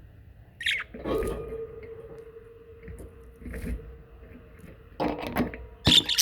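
Pet budgerigars chattering. There is a short high chirp just over half a second in, then a louder scratchy call with a held note, and more scratchy bursts of calls about five and six seconds in.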